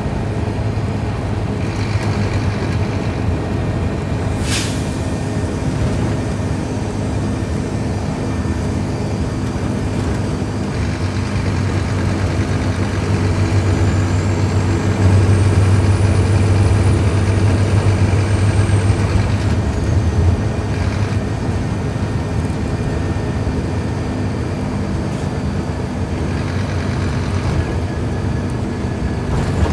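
Scania K310IB bus's five-cylinder diesel engine running, growing louder in the middle as it pulls harder. A high whistle rises and then falls over that stretch, and there is one brief sharp noise early on.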